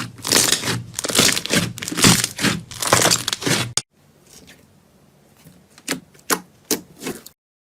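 Crunchy slime being squeezed and pressed, making dense crackling and popping. Almost four seconds in it cuts to a much quieter passage with a few single sharp pops, and the sound stops just before the end.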